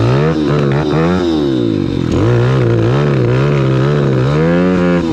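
SDG 190cc pit bike's single-cylinder four-stroke engine revving unevenly, its pitch climbing and sagging several times without holding: the engine is bogging, which the riders think comes from a too-long intake snorkel not letting it get enough air.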